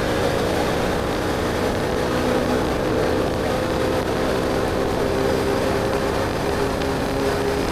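BMW R1250GS Adventure's boxer-twin engine through an Akrapovic slip-on exhaust, cruising at a steady engine speed that eases slightly lower in the second half, over a heavy rumble of wind and road noise.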